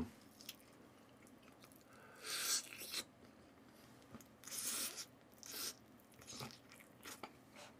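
A person chewing fried food close to the microphone: a few separate soft, crunchy bursts of chewing, the first about two seconds in and the rest spread through the middle and later part.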